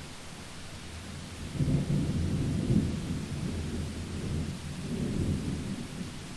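A rumble of thunder over steady rain: low rolling rumble swells about a second and a half in, peaks twice and dies away near the end, with the even hiss of rainfall underneath.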